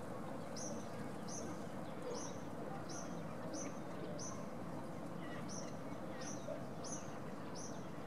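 A bird giving a short, high, down-hooked call over and over, about twice a second, over a steady background hum.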